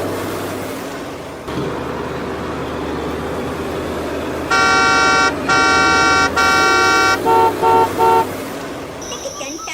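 Vehicle horn honking three long times, then three short, quicker beeps at a different pitch, over a steady low hum.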